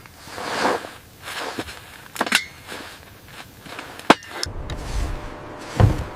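Slow crunching steps in snow, one every couple of seconds, with a sharp click about four seconds in, then a low rumble and a dull thump near the end.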